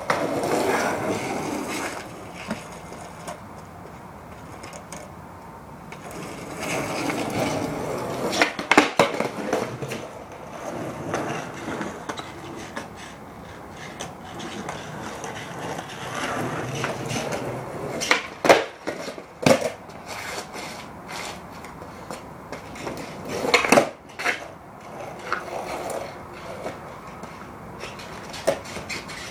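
Skateboard wheels rolling over wet pavement, a rumbling roll that swells and fades, with sharp clacks of the board against the ground: a few around 9 seconds in, several more around 18 to 19 seconds, and a loud one around 24 seconds.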